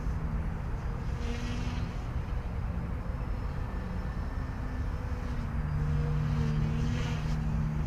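OMP M1 micro RC helicopter in flight: electric motor and rotor whine, a few steady tones that shift slightly in pitch as it manoeuvres, louder from about five and a half seconds in, over a low wind rumble on the microphone.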